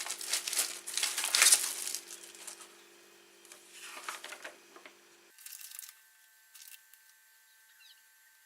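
Packaging crinkling and rustling as it is handled, loudest in the first two seconds, with a few softer rustles about four seconds in.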